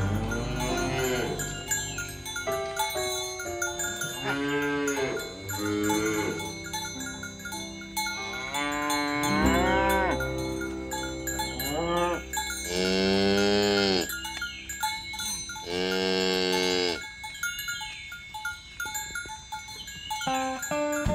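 Cattle mooing again and again, several calls overlapping, each rising and then falling in pitch, with two long, loud moos in the second half.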